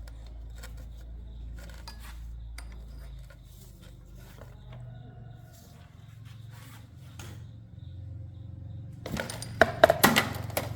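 Small metal tools and parts clicking and clinking as they are handled, ending in a short run of louder metallic clatter near the end. A low steady hum runs underneath.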